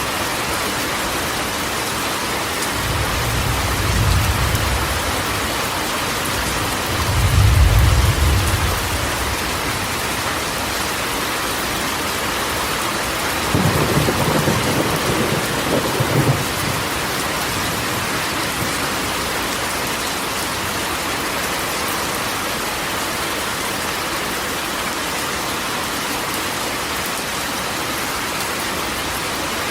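Steady rain falling on a corrugated tin roof, with thunder rumbling three times. The loudest rumble comes about eight seconds in, and a sharper, crackling one comes about halfway through.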